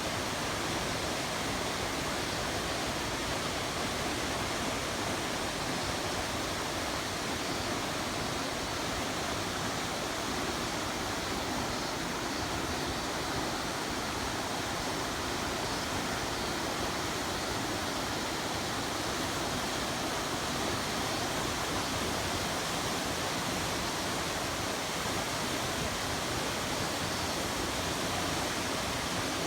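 Rushing water of a river, a steady, even rush of rapids with no change throughout.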